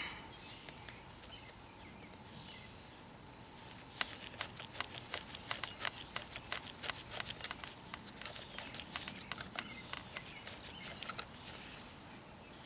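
A quick irregular run of light clicks and taps from small parts being handled: the spark arrestor screen, muffler cover and bolts being fitted back onto an Echo SRM 230 trimmer's exhaust.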